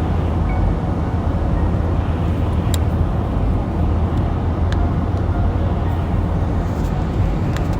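Steady low rumble of a car driving, heard inside the cabin, with a few faint clicks.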